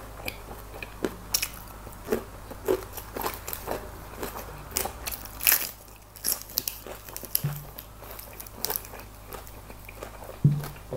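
Close-up mouth sounds of chewing crispy baked chicken wing and fresh lettuce: irregular crunches and crackles. Two short low hums come through, the second near the end.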